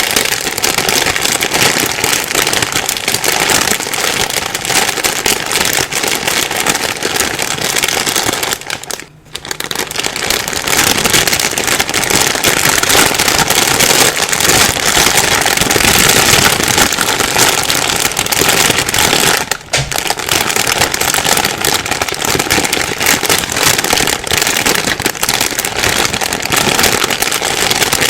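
Plastic bag being rustled and crumpled continuously, a dense crinkling crackle that pauses briefly twice.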